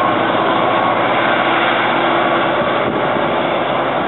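New Jersey Transit locomotive-hauled passenger train running past on the rails as it moves away: a loud, steady running noise of the locomotive and wheels that eases slightly near the end.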